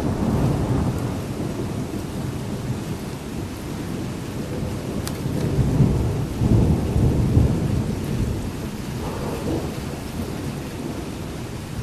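Rolling thunder rumbling through a thunderstorm, swelling loudest about six to seven seconds in, over steady rain.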